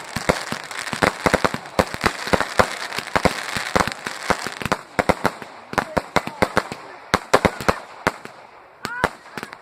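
Fireworks exploding: a rapid, irregular volley of sharp bangs, dense and mixed with crackling in the first half, thinning a little towards the end.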